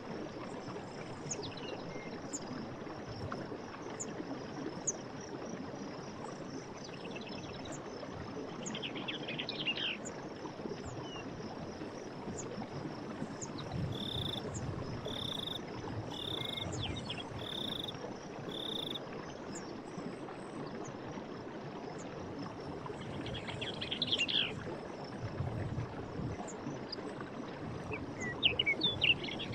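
Running stream water as a steady background, with birds chirping at intervals, loudest near the end. Midway a short, clear call is repeated five times about a second apart, over a steady high-pitched insect trill.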